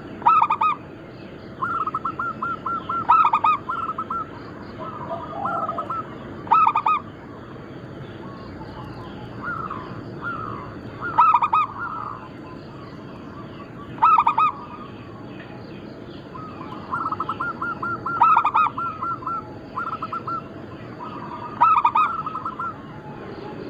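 Zebra doves cooing: runs of quick, evenly spaced staccato notes, broken every few seconds by a louder, fuller call.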